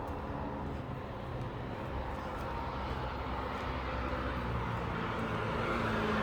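Steady rumble of city road traffic, a vehicle drawing closer and getting louder near the end.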